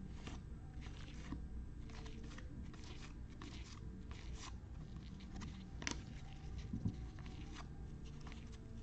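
Faint rustling and crinkling of trading cards being handled and sorted, in many short irregular crackles, with a couple of slightly louder clicks about six and seven seconds in.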